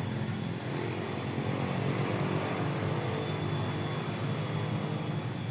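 Small boat engine running steadily at a constant speed, a low even drone.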